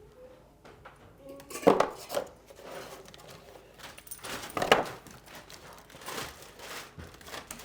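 Parts of a pocket hole jig kit being handled during unboxing: a few sharp clicks and knocks of hard pieces set down or bumped together, with light rustling of packaging between them.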